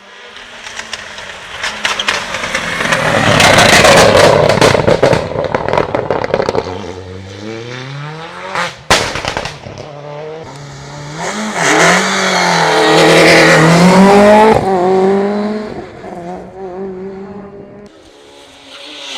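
Rally cars at full throttle passing close by. One car approaches and goes past with dense crackling engine and road noise, its pitch falling away. After a sudden break, another car accelerates hard, its revs rising and dropping with each gear change, then fades.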